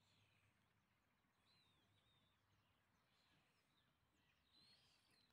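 Near silence: faint outdoor ambience with a few faint, wavering bird chirps in the distance.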